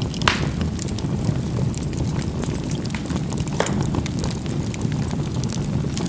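Charcoal burning in a fireplace: a steady low rumble of the fire, with a sharp pop just after the start, another at about three and a half seconds, and faint crackling ticks in between.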